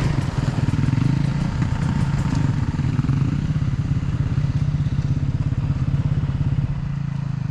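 Motocross motorcycle engine running at a steady, low speed, dropping slightly in level near the end.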